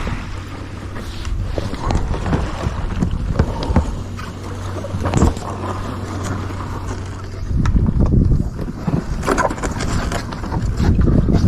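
Wind rumbling on the microphone of a sea kayak under way, with intermittent water splashes.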